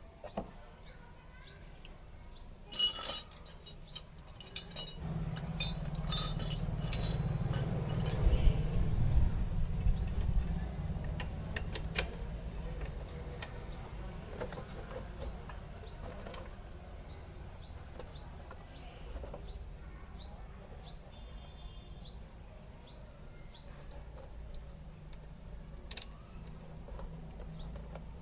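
A small bird chirping over and over, each chirp a short falling note, about one or two a second. Metallic clinks come a few seconds in, and a low rumble swells about five seconds in and eases off after ten seconds.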